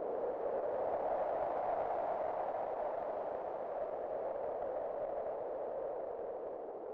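Howling wind: a steady hollow whoosh with a faint whistle to it, swelling a second or two in, then slowly dying down.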